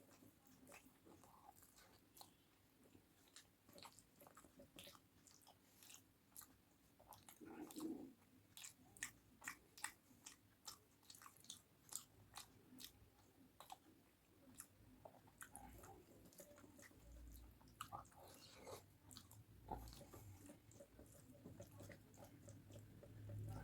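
A person chewing food with the mouth close to the microphone: many short wet mouth clicks and smacks, thickest from about eight to fourteen seconds in.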